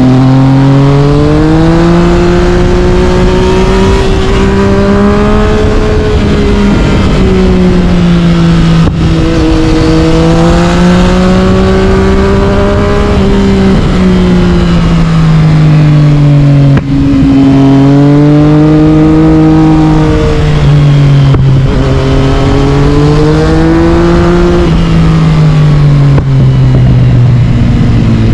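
Yamaha MT-09 inline-three with an Akrapovic carbon exhaust, ridden hard: the engine note climbs and falls over and over as the bike accelerates and rolls off. There are brief breaks in the sound about four times, at the gear changes.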